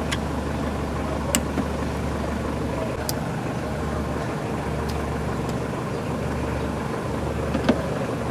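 Toyota GLi engine idling steadily, with a few scattered sharp clicks.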